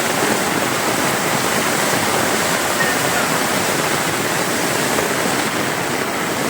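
Floodwater after a cloudburst rushing in a steady, loud torrent, with no break or change in its sound.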